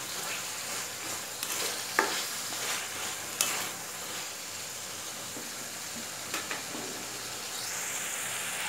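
Chicken pieces frying in spiced masala in a metal kadai, a steady sizzle, while a spatula stirs and scrapes the pan, with sharp clacks of the spatula on the pan about two seconds and three and a half seconds in. The chicken is being sautéed dry in the spice paste, with no water added.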